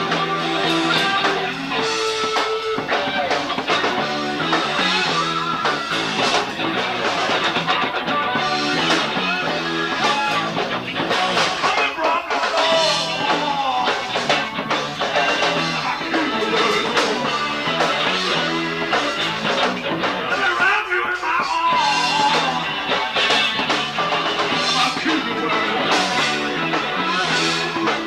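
Live rock band playing a song: guitar, bass guitar and drum kit.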